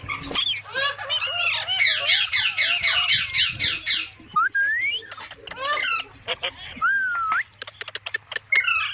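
Ringneck parakeets squawking and chattering: a fast run of harsh, repeated calls for the first four seconds, then two single rising whistles.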